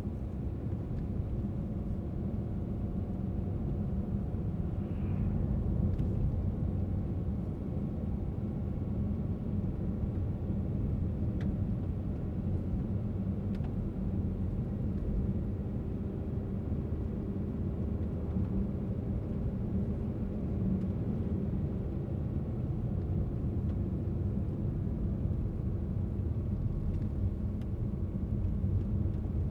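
Car driving at a steady speed: engine and tyre road noise as a low, steady rumble.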